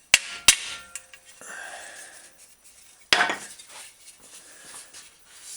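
Steel bicycle fender struck with a small die to tap out a dent: two sharp metallic strikes near the start, the second ringing briefly, then some scraping and a third strike about three seconds in.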